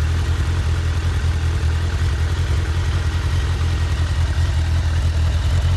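Suzuki Bandit 1200's inline-four engine idling steadily, still cold after a cold start.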